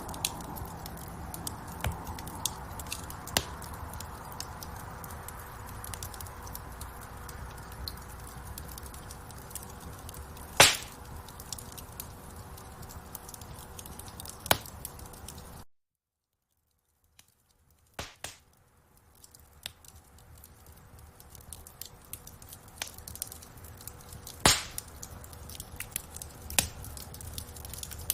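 Wood fire in a fireplace crackling steadily, with many small ticks and three loud sharp pops. The sound cuts out completely for about two seconds past halfway, then the crackling comes back.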